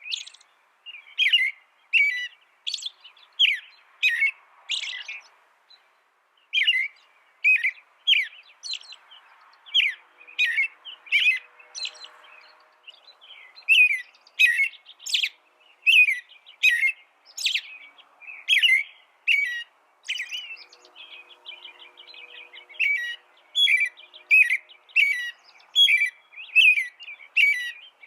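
A small songbird giving short, sharp chirps over and over, about two a second, in runs broken by brief pauses.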